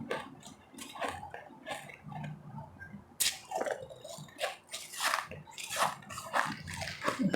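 Ice being chewed and crunched close to the microphone, in a run of irregular crunches and bites.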